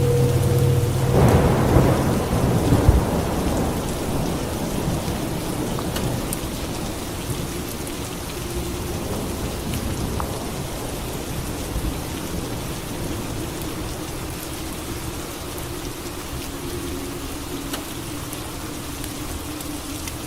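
Steady rain falling, with a thunderclap about a second in that rumbles and slowly dies away over several seconds.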